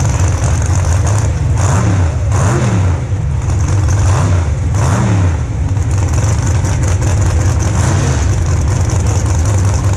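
Drag race car engine running with a deep rumble, revved up and back down in several quick throttle blips between about one and a half and five seconds in, then settling back to a steady run.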